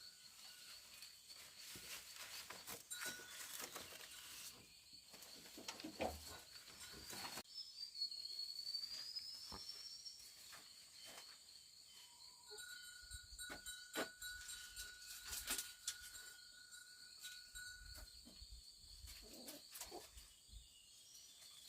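Faint outdoor ambience: insects keep up a steady high drone, and a bird gives a rising whistle partway through. Scattered light clicks and knocks come through.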